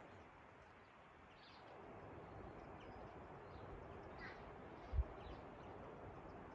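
Quiet outdoor ambience with a few faint, scattered bird chirps, and one soft low thump about five seconds in.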